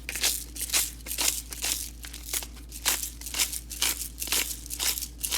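Hand salt grinder grinding coarse Himalayan salt crystals: a steady run of short, crunching grinds, about three a second.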